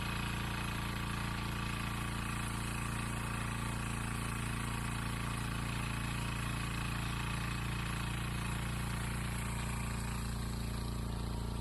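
A small engine running steadily at an even speed, with a fast, regular chugging pulse, as of a motorised garden machine such as a tiller.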